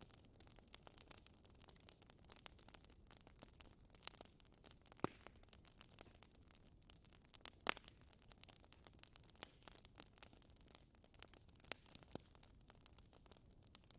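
Wood fire crackling: scattered small crackles over a faint hiss, with two louder pops about five seconds and nearly eight seconds in.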